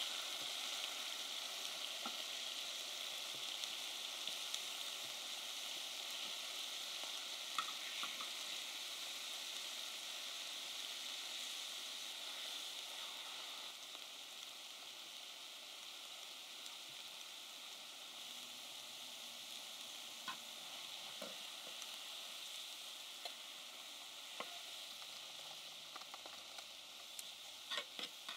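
Pork neck and kimchi sizzling on a cast-iron cauldron-lid griddle: a steady frying hiss that slowly fades. Occasional clicks of scissors and tongs against the lid, with a cluster of clicks near the end as rice is stirred in.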